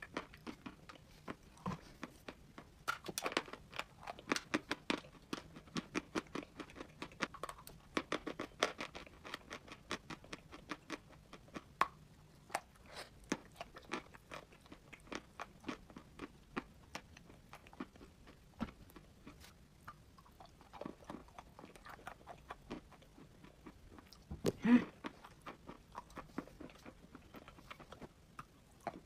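A person chewing chalk close to the microphone: a steady run of small sharp crunches and crackles as it breaks up between the teeth, with a louder cluster of crunches late on.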